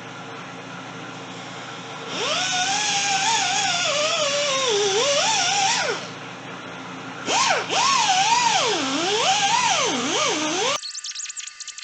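Angle grinder grinding the pitted aluminium engine cases of a Kawasaki KZ400, in two passes with a brief lift-off between; the motor's whine slides up and down as it bogs under pressure against the metal. It cuts off abruptly about a second before the end.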